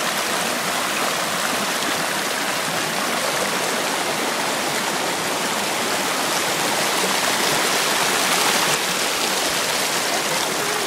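Mountain stream rushing over rocks, a steady water noise that swells slightly about three-quarters of the way through.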